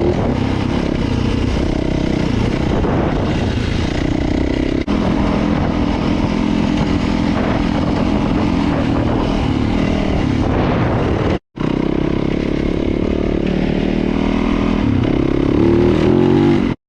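Dirt bike engine running under riding load, its pitch rising and falling with the throttle and climbing near the end. The sound breaks off twice: for an instant about five seconds in, and for about half a second a little before twelve seconds.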